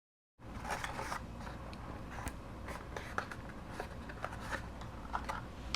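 Small handling noises of paper craft pieces and supplies on a work table: scattered light clicks, taps and short rustles over a steady low room hum. The sound cuts in abruptly from dead silence about half a second in.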